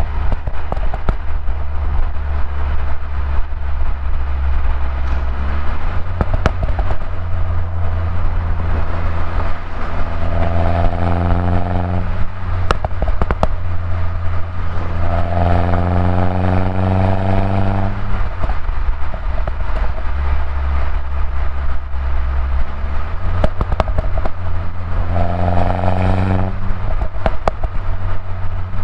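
2011 Mini Cooper S R56's turbocharged 1.6-litre four-cylinder engine on its stock exhaust, pulling through the gears: the engine note climbs in pitch several times and drops back at each gear change, over a steady low drone. Short sharp crackles and clicks come between the pulls.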